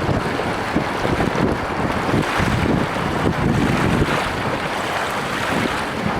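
Wind buffeting the microphone in gusts over the rush of water along a small sailboat's hull as it sails fast.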